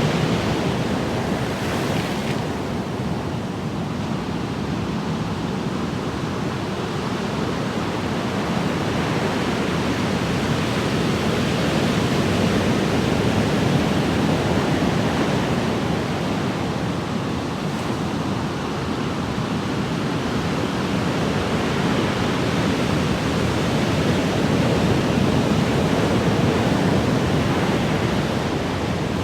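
Ocean surf: a continuous wash of breaking waves, swelling and easing slowly every ten seconds or so.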